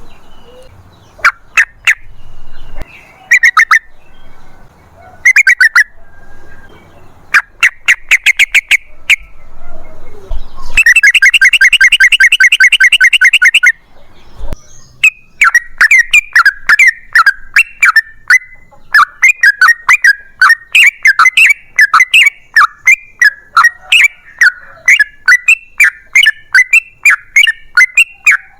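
Yellow-vented bulbul (trucukan) singing. It gives short bursts of rapid bubbly notes, then a dense fast burst, then a long rapid run of chattering notes through the second half: the long 'ropel' song.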